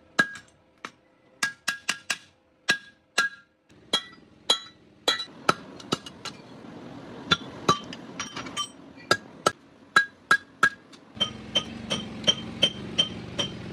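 Blacksmith's hammer striking metal on an anvil, each blow ringing. The blows come at uneven spacing at first, then settle into a steady run of about three a second near the end, with a low background noise coming up.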